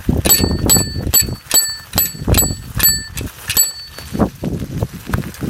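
Bicycle bell rung over and over, about two to three rings a second, stopping about two-thirds of the way through, over the low rumble of the bicycle riding; a couple of dull knocks follow near the end.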